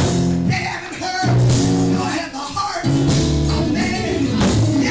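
Church band music with sustained keyboard or organ chords, with some singing or voices over it.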